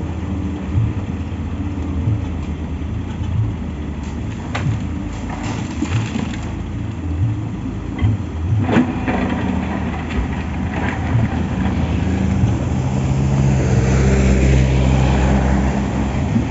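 Heavy diesel engines running steadily, with a few scattered knocks and clanks; one engine grows louder in the last few seconds.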